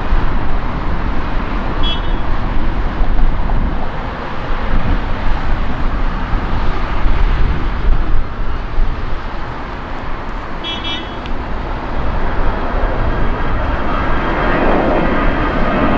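Steady loud rumble of jet aircraft at an airport, with a jet growing louder near the end as it approaches, its engine whine showing as steady tones. Two brief high chirps, about two and eleven seconds in.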